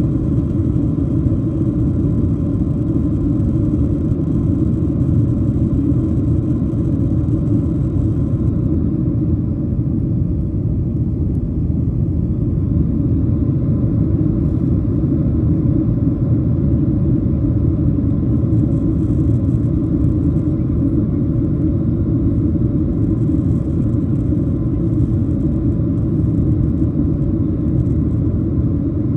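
Steady low rumble of cabin noise inside a Boeing 737-700 in flight: airflow and the CFM56-7B jet engines heard from a window seat over the wing.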